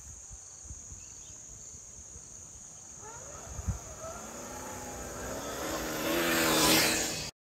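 A steady high insect drone, joined about three seconds in by a vehicle engine rising in pitch and growing louder as it speeds up, cut off suddenly near the end.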